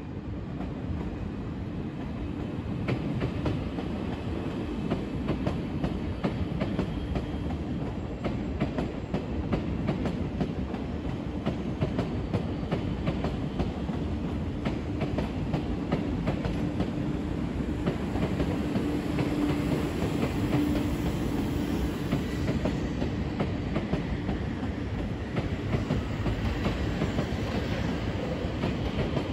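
Electric commuter train running over the tracks and points below: a steady rumble of wheels on rail with many fine clicks over joints and switches. A low hum swells briefly about twenty seconds in.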